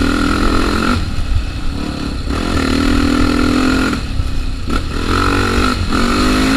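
Trail motorcycle engine running under throttle on a dirt trail, the throttle eased off twice before picking up again, with wind rumble on the microphone.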